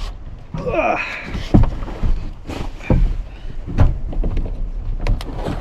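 Thumps and knocks of someone clambering and shifting about in a pickup's topper-covered bed, with a grunt about a second in and a low rumble from handling the camera.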